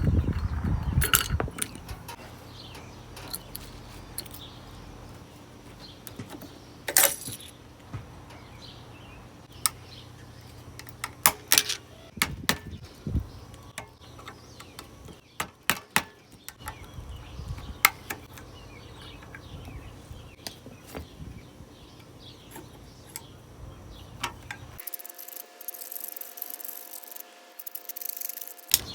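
Scattered metallic clinks, clanks and knocks of hand tools and scrap metal parts being handled while a water heater is taken apart, over a low steady hum. Near the end the sound changes abruptly to a quieter thin hiss with faint steady tones.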